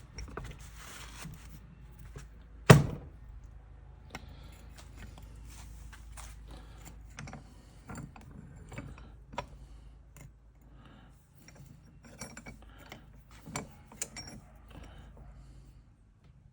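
A small metal vise and sending unit being handled and clamped: scattered light clicks and metal rattles, with one loud knock about three seconds in.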